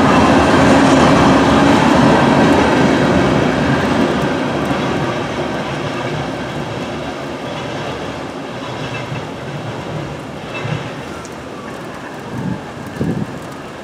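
Steel-coil-laden freight cars rolling past, their wheels rumbling on the rails. The last car goes by in the first seconds, and the noise then fades steadily as the train moves away.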